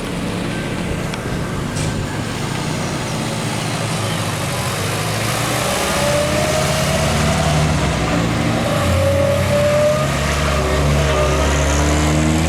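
Classic car engines running as the cars pull away, one note rising in pitch as it accelerates, with a deeper engine growing louder near the end.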